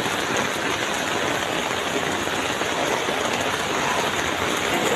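Steady rushing noise of a storm, rain and strong wind, with no single event standing out.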